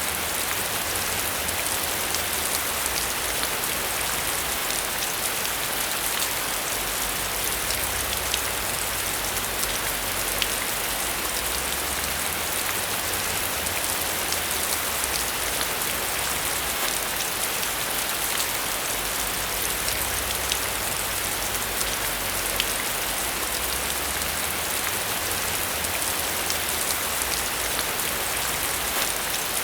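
Steady rain falling, an even hiss with many fine drop ticks, over a faint low rumble that swells and fades slowly.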